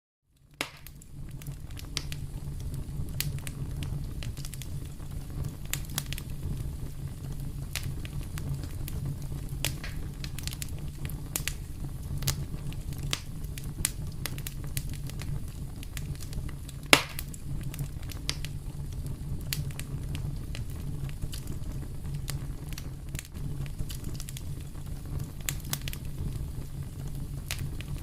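Wood fire in a fireplace crackling, with many small sharp pops over a steady low rumble and one much louder pop about seventeen seconds in. It cuts in after a brief moment of silence at the very start.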